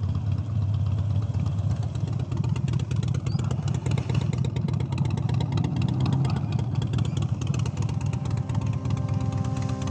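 Harley-Davidson Sportster Iron 883 V-twin engine running at an even pace while the bike is ridden. Music fades in near the end.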